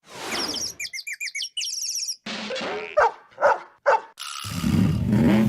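A string of cartoon sound effects: rapid, high bird-like chirping for about two seconds, then three or four short, sharp dog-like yaps, then a rushing swell with a low sliding tone near the end.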